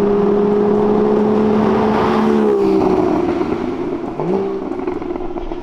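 Porsche 981 Cayman's flat-six engine through a valveless SOUL Performance exhaust, held at a steady high note under load, then falling away in pitch and loudness about two and a half seconds in as the throttle comes off. A short rising rev about four seconds in, then it settles to a quieter steady note.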